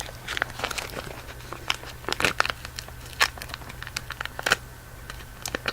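Plastic candy wrapper of a Cow Tales caramel crinkling as it is handled, in scattered sharp crackles.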